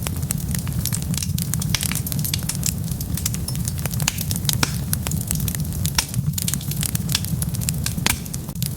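Wood fire crackling: many irregular sharp pops and snaps over a steady low rumble of the burning fire.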